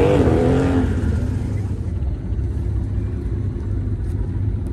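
Car engine revving: its pitch tops out right at the start and falls back within the first second. A steady low engine rumble runs under it.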